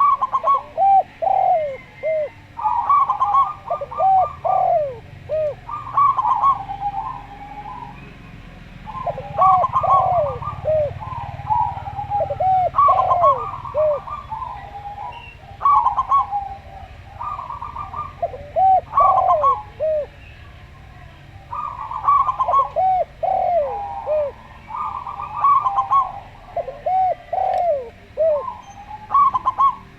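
Doves cooing: the perkutut (zebra dove) and derkuku (spotted dove) song used as a lure recording. Repeated phrases come about every three seconds, each a quick run of clipped notes followed by several soft arched coos.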